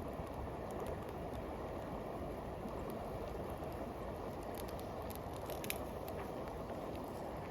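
Steady rushing noise, with a few faint sharp clicks or crackles about five to six seconds in.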